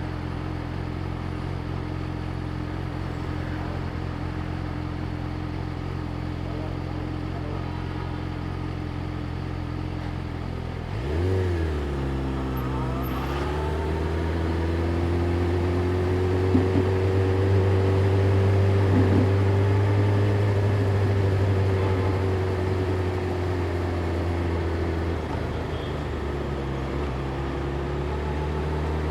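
Yamaha YZF-R6's inline-four engine idling steadily, then a quick rise in revs about a third of the way in as the bike moves off. It then runs at a steady, slightly higher note that climbs slowly and settles back to a lower steady note near the end.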